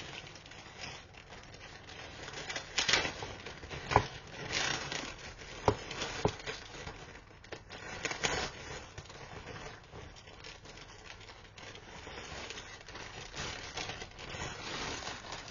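Plastic packaging crinkling and rustling as it is handled and opened by hand, with scattered sharp clicks and taps.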